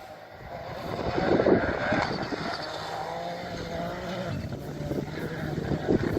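A rally car's engine coming up at speed and passing, loudest about a second and a half in, then running on at a steady pitch.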